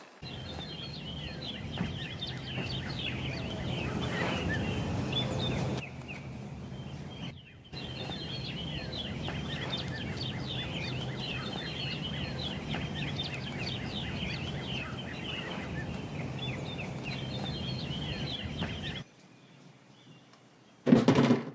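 Many small birds chirping and chattering together over a steady low hum. The sound is broken by abrupt cuts about six and seven and a half seconds in, drops to near quiet about nineteen seconds in, and ends with a short loud burst.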